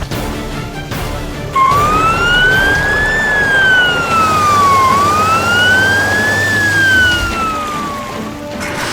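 A wailing emergency siren over background music, sweeping slowly up and down twice, each rise and fall taking about three seconds. It comes in about a second and a half in and stops shortly before the end.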